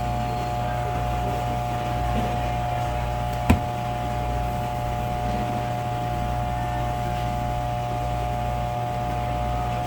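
Steady machine hum with a few constant tones, and one sharp knock about three and a half seconds in.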